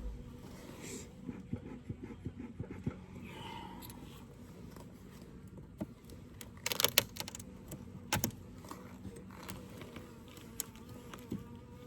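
Wooden hive frames being handled in a Layens horizontal beehive: scattered clicks, scrapes and knocks, the loudest a cluster about seven seconds in and a single knock about a second later. Under them runs a steady low hum of honeybees.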